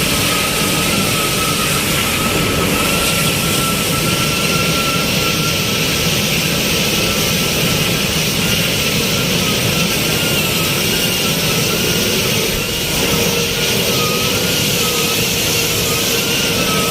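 Steady jet-like roar of burning gas rushing out of 3 kg LPG cylinders, with a high whistle on top that starts to waver up and down about halfway through.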